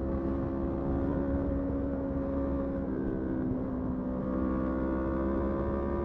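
Motorcycle engine running at a steady speed under way, with a low rumble of wind and road beneath it. Its pitch breaks briefly about three seconds in, then holds steady again.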